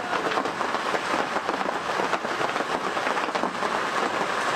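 Heavy rain falling steadily, a dense, unbroken rush of drops that runs on in one tone without a break.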